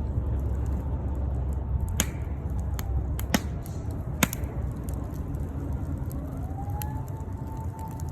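Wood fire crackling in a Solo Stove Yukon fire pit: a steady low rumble with a few sharp pops, the loudest about four seconds in. A faint thin whistling tone rises slightly a little past halfway and then holds.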